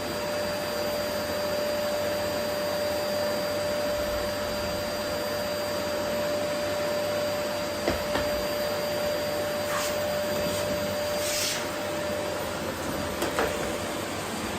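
Vacuum cleaner running steadily with a constant whine over its rushing air noise, with a few brief clicks and hissy rattles in the second half.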